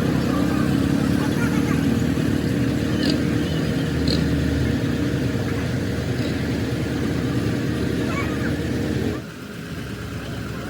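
A motor vehicle's engine running steadily with a low hum, dropping suddenly in level about nine seconds in.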